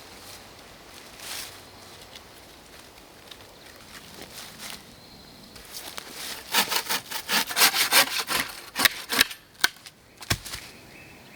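Hand saw cutting through a wooden branch: a fast run of loud strokes starting about halfway through and stopping about three seconds later, followed by two separate knocks, the last a dull thud.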